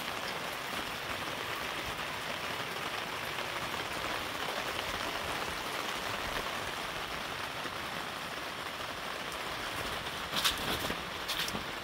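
Steady rain falling, with a few short sharp taps near the end.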